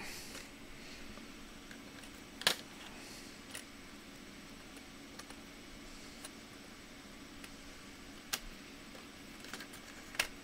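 Scattered small clicks and taps of a laptop's plastic and metal parts and a screwdriver being handled during disassembly, the loudest about two and a half seconds in, over a faint steady hum.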